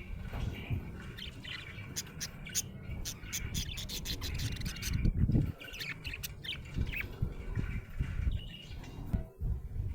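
Budgerigar chirping and chattering in short, quick calls, with a run of sharp clicks about two seconds in and a low bump just past halfway.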